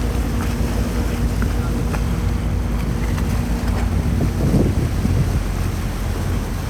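Water taxi's motor running at a steady drone, with wind buffeting the microphone and water noise from the moving boat.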